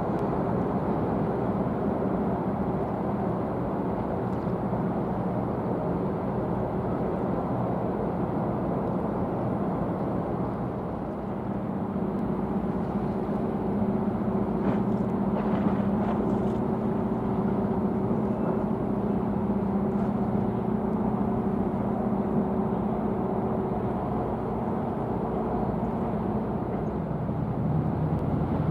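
A steady engine drone with a low hum that grows stronger partway through and drops in pitch near the end.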